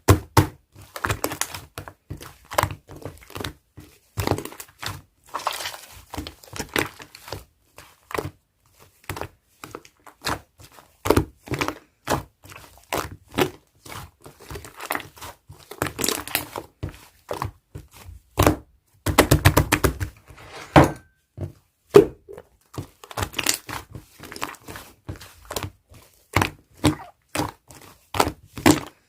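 Slime being squished, pressed and folded by hand while it is mixed, giving irregular sticky clicks and pops, with a quick run of crackling pops about two-thirds of the way through.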